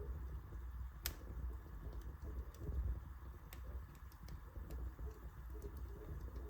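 Wood fire burning in a fireplace: a low rumble of flames with scattered crackles and pops, the sharpest about a second in and again about three and a half seconds in.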